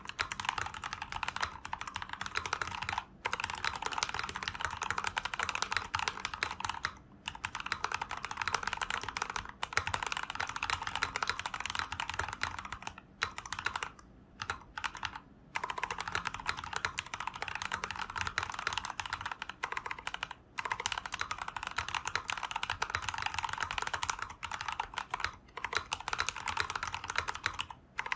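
Fast, continuous typing on an acrylic sandwich-case 60% mechanical keyboard with Tecsee Jadeite switches, a steady stream of key clacks broken by a few brief pauses, the longest a little before the middle.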